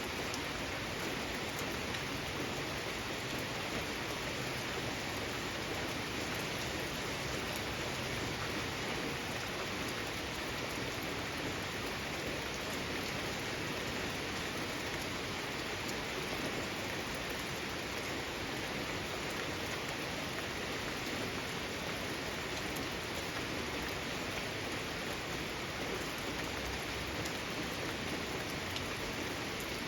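Steady rain falling in a garden, a constant even hiss of drops on surfaces with no breaks or changes.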